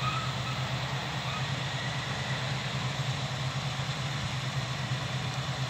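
Steady drone of farm machinery engines working in the field, combine harvester and baling tractor, an even low hum with no change.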